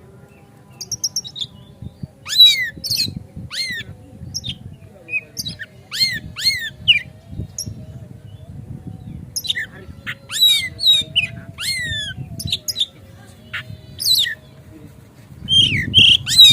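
Oriental magpie-robin (kacer) singing: loud, sharp whistled notes that fall steeply in pitch, strung into quick phrases starting about a second in, over a low background rumble.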